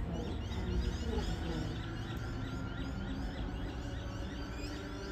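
A bird calling over and over in quick high chirps, about two or three a second, over a steady low rumble.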